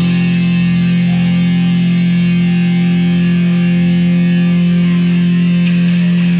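A live rock band's distorted electric guitar and bass holding one chord, ringing steadily with no drums.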